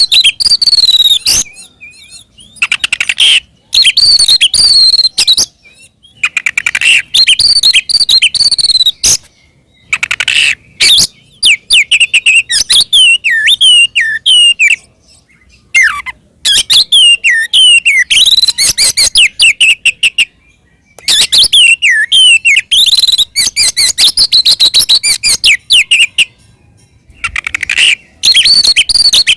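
Oriental magpie-robin singing its loud, full fighting song in bursts a few seconds long with short pauses between them. The song is made of rapid sharp notes and whistled phrases that slide up and down. This is the challenge song that goads rival magpie-robins into singing back.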